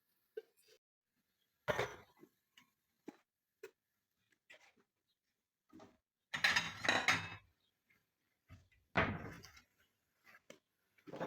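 Scattered light knocks and clatters of objects being handled and set down, with the loudest clatter about six to seven seconds in and another knock around nine seconds.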